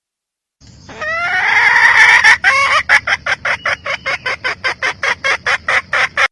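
Red junglefowl hen calling. One drawn-out rising note is followed by a fast run of short, repeated clucks, about four to five a second, which stop abruptly.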